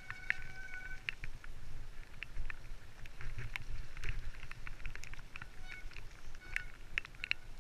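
Mountain bike descending a rough woodland trail: the frame and parts rattle with many sharp clicks and knocks over a steady low rumble. A short, high brake squeal comes in the first second and again faintly near the end.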